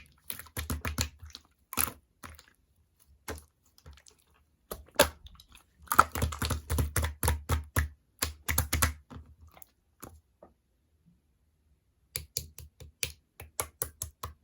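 Clear slime being squished and poked by hand: quick runs of sticky clicks and pops, pausing for about two seconds before a last run of clicks.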